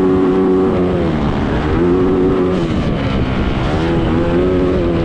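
A motor engine revving, its pitch climbing, holding and dropping back about three times over a rough low rumble.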